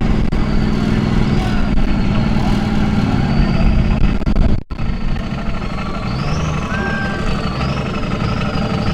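Off-road vehicle engine running hard and steadily, with a faint high wavering whine over it; the sound cuts out for an instant about halfway through.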